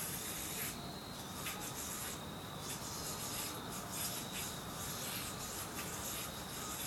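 Avalanche yo-yo spinning on its string during throws and tricks, a steady scratchy hiss with a couple of short breaks.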